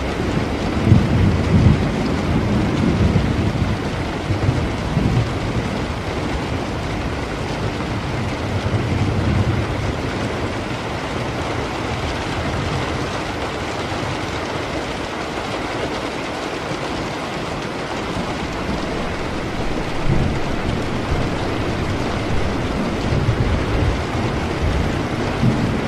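Steady rain with low thunder rumbling in several rolls. The strongest roll comes near the start, and others follow around ten seconds in and again near the end.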